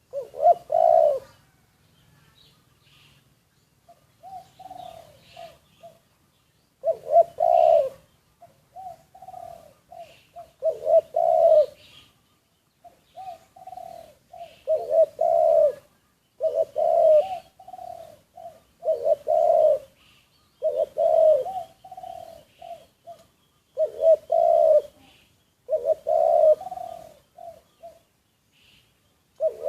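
Spotted doves cooing: a loud coo every two to four seconds, with softer coo notes in between.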